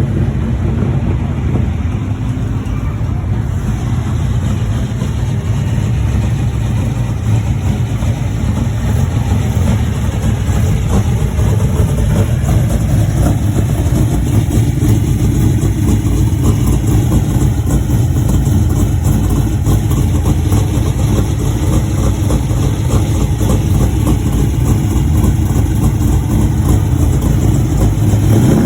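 Vintage car engine running steadily, a little louder from about twelve seconds in.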